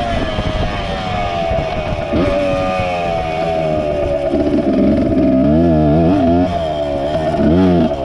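MX 100 motorcycle engine running hard. Its note slides slowly down over the first few seconds, then rises and falls quickly several times in the second half as the throttle is worked.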